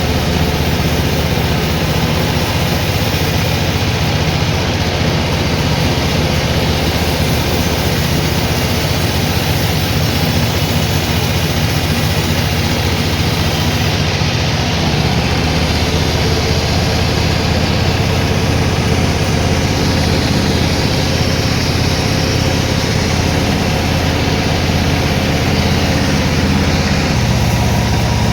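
Sawmill machinery running steadily, a continuous heavy motor hum with little change, shifting slightly in pitch near the end.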